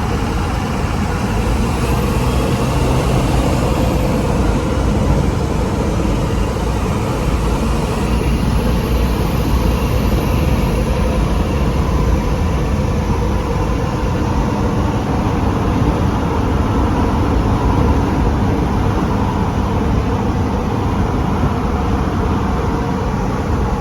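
Cummins diesel pickup truck with a custom-made exhaust driving along at a steady pace: even engine, exhaust and road noise with no change in speed.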